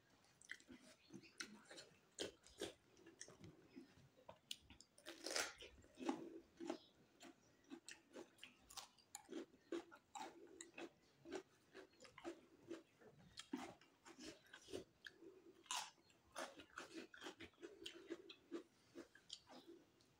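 A person chewing and biting crunchy raw cucumber close to the microphone: irregular wet crunches and mouth sounds, with a few louder crunches.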